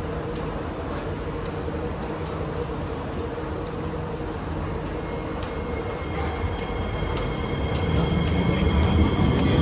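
Singapore MRT train setting off: steady cabin rumble, then a high electric motor whine comes in about five seconds in and the running noise grows louder as the train picks up speed.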